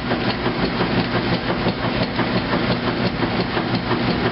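2008 Kenmore top-load washing machine running in the wash part of its heavy duty cycle, ahead of the drain and spin: a steady motor hum with rapid, regular clacking.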